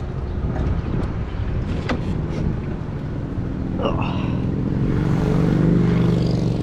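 Motorcycle engine running under a steady low rumble, its note rising and growing louder in the second half as the revs climb.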